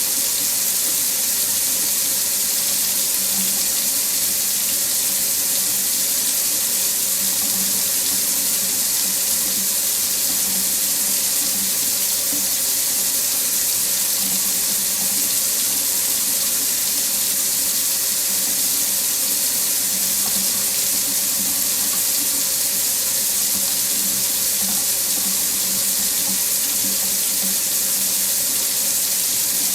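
Water tap running steadily into a sink, a constant even rush of water.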